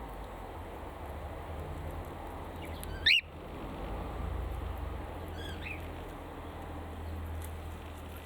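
A bird in an aviary gives one short, loud call that sweeps up in pitch about three seconds in, then a fainter call a couple of seconds later, over a low steady rumble.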